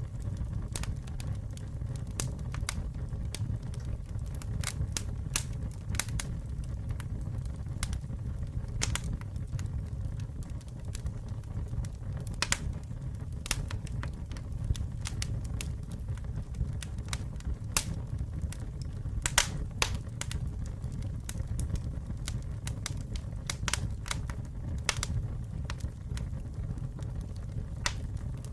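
Campfire wood burning, with irregular sharp crackles and pops over a steady low rumble of flames. One louder pop comes about 19 seconds in.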